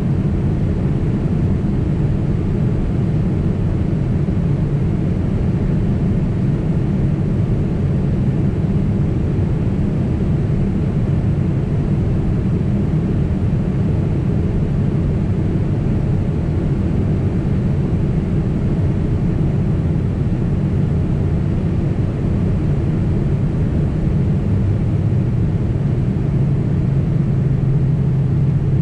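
Steady cabin noise of a Boeing 767 airliner in flight: a constant low rumble of jet engines and airflow.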